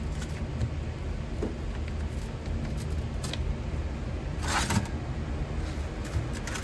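Steady low rumble of a metal-melting furnace running while it heats copper, with a short hissing scrape about four and a half seconds in.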